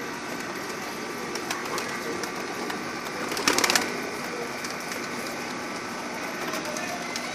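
Domestic pigeons in a breeding loft, over a steady background hiss, with a brief rapid clatter of about five clicks about halfway through.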